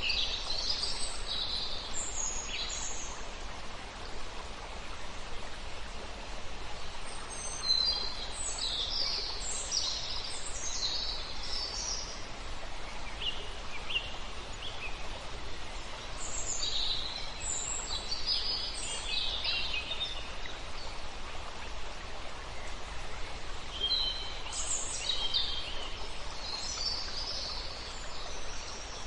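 Songbirds singing in short high bouts, several birds at once, over the steady rush of a river.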